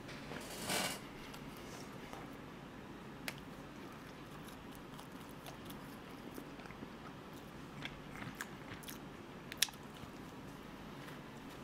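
Close-miked eating of a fresh-cream croissant: a short flaky crunch of a bite about half a second in, then quiet chewing with scattered small crisp clicks of pastry and mouth, the sharpest one about two seconds before the end.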